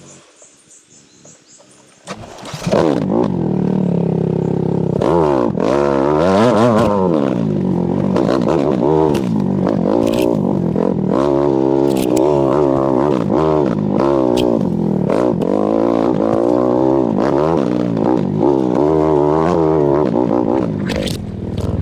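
Dirt bike engine revving hard again and again, its pitch climbing and dropping every second or two. It comes in loudly about two seconds in. It is the sound of a bogged-down enduro motorcycle with its rear wheel spinning in place instead of driving it forward.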